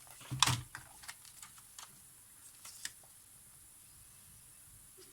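Small clicks and taps from handling a camera and tools while checking its switch contacts: a quick cluster of clicks about half a second in, then a few lighter single ticks.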